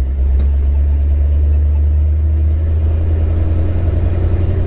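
Old pickup truck's engine running with a steady low drone.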